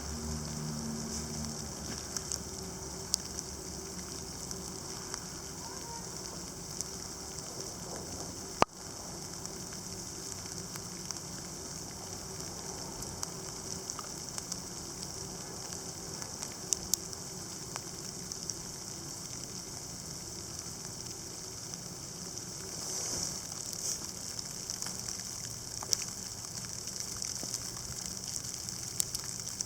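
Sleet mixed with snow falling, a steady hiss of pellets with scattered sharp ticks as they strike surfaces. A louder single click comes about nine seconds in, and the patter swells briefly a little past the middle.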